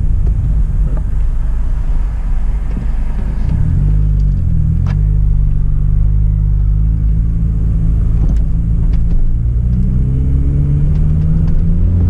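Hyundai Tiburon (Coupe) 2.0 petrol four-cylinder engine and exhaust running while driving. The engine note drops and climbs back around four seconds in, like a gear change, then rises steadily through the second half as the car accelerates. Two sharp clicks are heard, one about five seconds in and one about eight seconds in.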